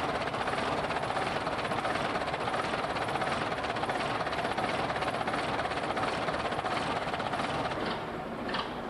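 Gardner 6LW six-cylinder diesel engine of a 1942 Guy Arab bus running steadily after a long lay-up. Near the end it drops slightly in level and regular knocks come through about twice a second.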